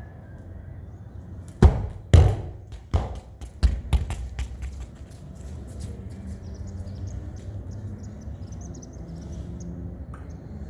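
A football hit and then bouncing several times, the first two hits the loudest and the following bounces growing weaker until they die out about three seconds later, over a steady low background noise.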